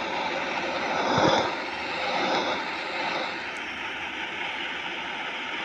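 Airplane engines running, a steady rushing noise that swells about a second in and again around two seconds, then holds steady.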